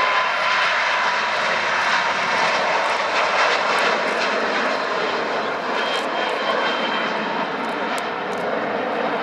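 Airliner's engines passing at close range, a loud steady rush that slowly fades toward the end.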